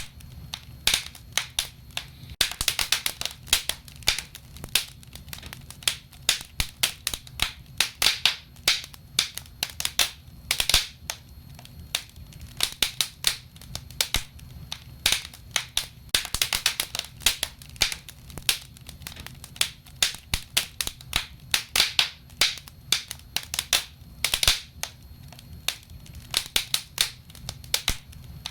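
Wood fire burning in a fireplace: a steady stream of sharp, irregular crackles and pops, some coming in quick clusters, over a faint low rumble.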